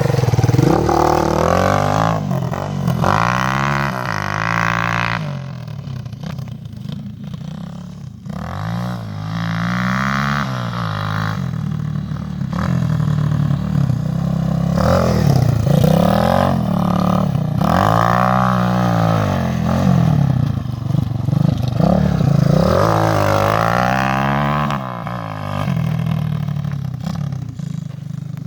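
250 cc dirt bike engine revving hard and backing off over and over as it is ridden, its pitch climbing and dropping in a series of surges.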